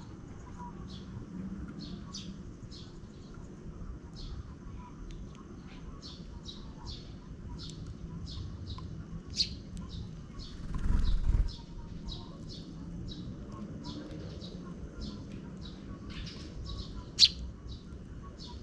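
Sparrows chirping: a steady run of short, high chirps, two or three a second. About eleven seconds in comes a low rumble lasting about a second, and near the end a single sharper, louder note.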